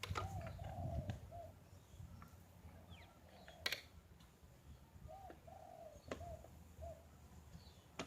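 A dove cooing, two short phrases of low rounded notes, one at the start and one about five seconds in. A sharp click a little under four seconds in.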